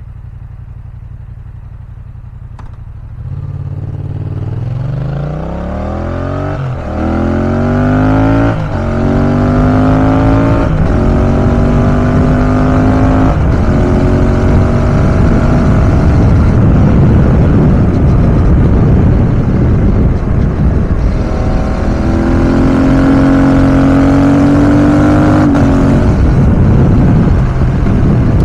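Motorcycle engine idling, then accelerating hard through several gears, the revs climbing and dropping back at each shift every two to three seconds, then cruising with wind rushing over the microphone. Near the end the revs climb again before the throttle closes.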